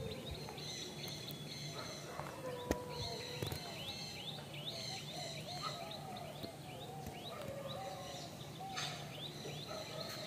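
Small birds chirping: runs of short, high, falling chirps repeated throughout, over a steady low background hum.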